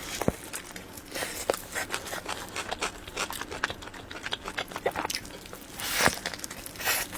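Close-miked chewing of soft, cream-filled sponge cake roll: many quick wet mouth clicks and smacks, with one louder, longer burst about six seconds in.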